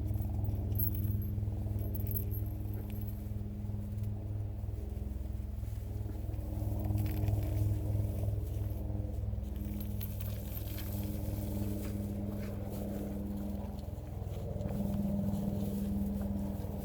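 Helicopter droning steadily overhead, a low humming engine and rotor sound that swells and eases slightly.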